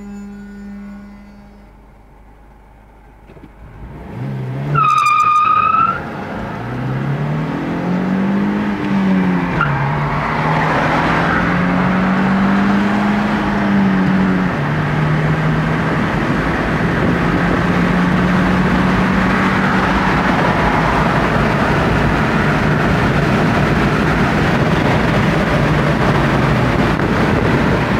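Chevrolet Lacetti's 1.8-litre T18SED four-cylinder engine, run without a catalytic converter, at full-throttle acceleration, heard from inside the cabin. A brief loud high squeal from the tyres comes as it launches about five seconds in. Then the engine revs climb and drop back at each gear change before settling into a steady drone at speed.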